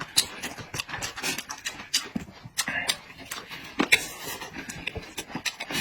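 Close-up eating sounds: wet chewing and lip-smacking of food, with irregular clicks several times a second and brief slurps.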